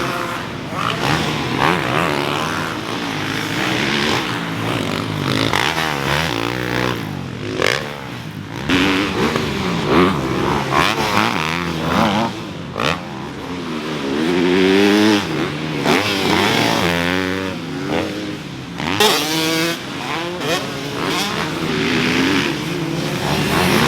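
Motocross dirt bikes running on the track, their engines revving with the pitch repeatedly rising and falling as they accelerate and shift, at times overlapping.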